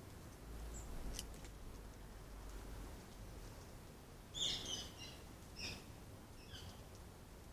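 Small garden bird chirping: a few short, high calls in the second half, the first one the loudest, with fainter chirps about a second in.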